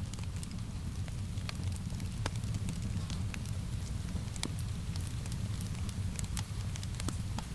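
Wood fire in a fireplace crackling, with irregular sharp pops and snaps over a steady low rumble of the flames, mixed with a soft hiss of rain.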